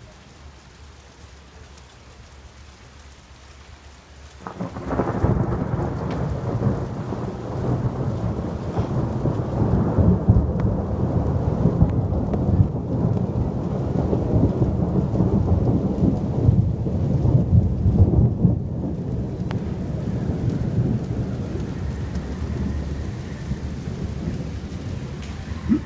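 Rain falls softly, then about four seconds in a sharp thunderclap breaks into loud thunder that rumbles on for about twenty seconds, slowly easing, with the rain still falling.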